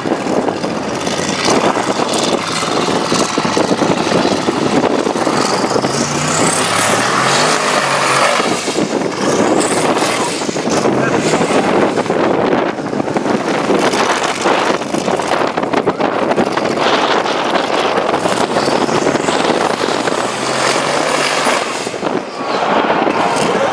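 Custom twin-turbo Ford engine of a 1600 hp off-road truck running at high revs, its pitch rising several times as it is pushed hard.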